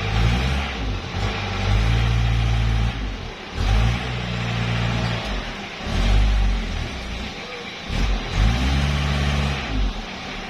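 Pickup truck engine revving up and easing off repeatedly, about four times, its pitch rising with each rev and dropping back in between.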